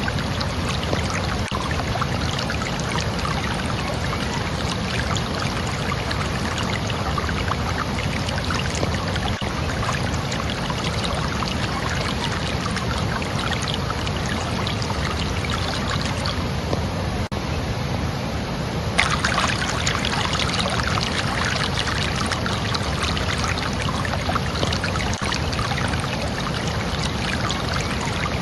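Running water, a steady rushing and splashing flow. It changes suddenly about two-thirds of the way in, turning a little louder and brighter.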